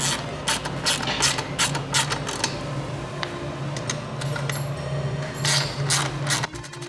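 Ratchet wrench clicking in a run of quick, short strokes.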